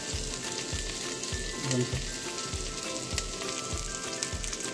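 Potato pieces in a spiced masala sizzling in hot oil in a kadhai, a steady hiss with small crackles.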